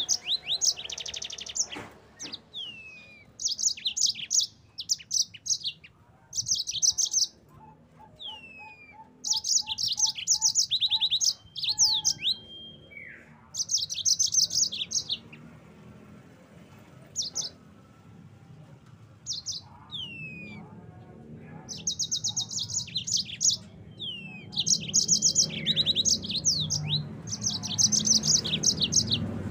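Yellow-fronted canary (Mozambique canary) singing in phrases of fast, high-pitched trills broken by short pauses, with falling slurred whistle notes between them.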